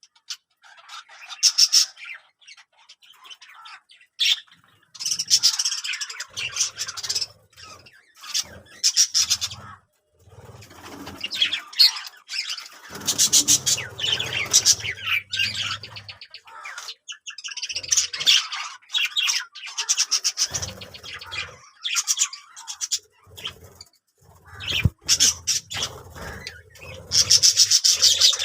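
Budgerigars chirping and chattering in irregular bursts of rapid high-pitched notes, with short pauses between.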